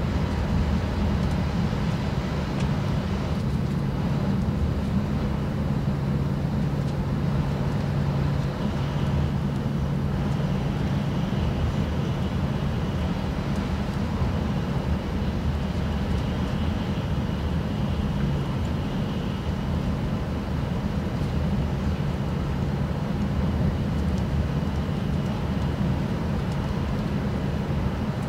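Passenger-cabin running noise of an E6 series Komachi shinkansen travelling at speed: a steady low rumble with a steady hum beneath it.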